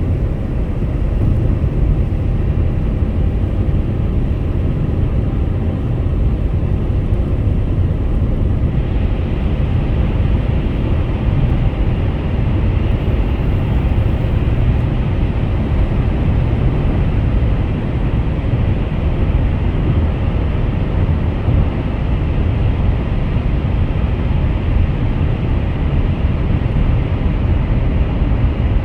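Car driving at highway speed: steady low road rumble and tyre noise. About nine seconds in, a brighter hiss joins the rumble and stays.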